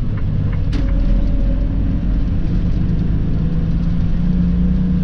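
Semi-truck's diesel engine running steadily with a low rumble and hum, heard from inside the cab. A single short click comes just under a second in.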